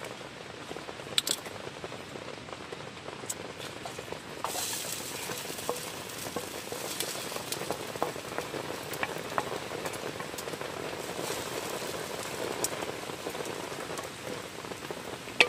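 Rain falling on the tent, a steady hiss with scattered ticks and clicks that grows louder about four and a half seconds in.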